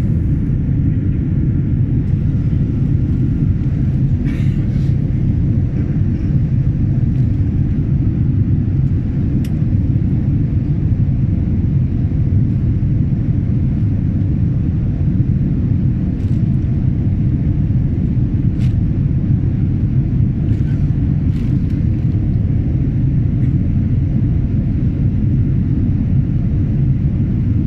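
Steady low rumble of an airliner's engines and airflow heard inside the passenger cabin, with a few faint clicks scattered through it.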